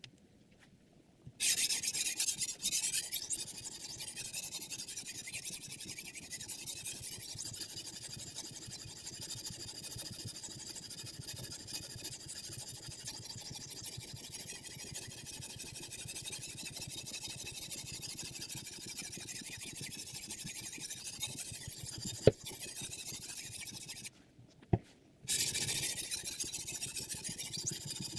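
Sharpening stone rubbing along the steel edge of a Xinzuo chef knife clamped in a guided sharpener: a continuous gritty scraping. It starts about a second in, stops for about a second near the end, then resumes. A sharp click comes shortly before the pause.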